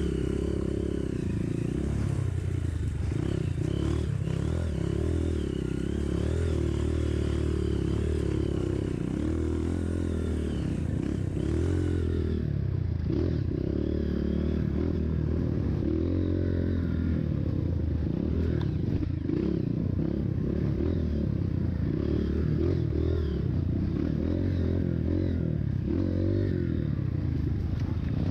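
Trail motorcycle engine running under changing throttle, its pitch rising and falling as the bike rides along a dirt trail, with rattling from the rough ground.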